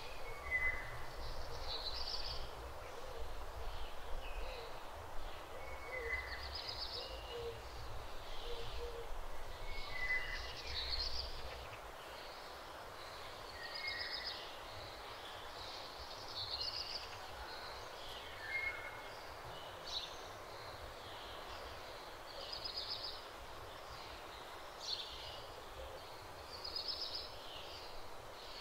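Birds calling with short high chirps and trills every second or two. A low rumble underneath stops about twelve seconds in.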